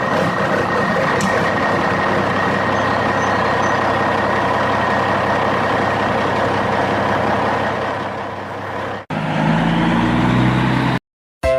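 A vehicle engine running steadily with a constant whine over it. About nine seconds in it cuts off abruptly to a different, lower engine hum. That stops dead shortly before the end.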